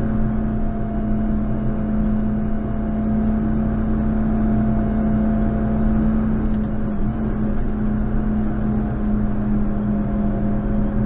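JCB Fastrac 4220 tractor's diesel engine running steadily under snow-ploughing load, a constant droning hum with a brief dip in pitch about seven seconds in.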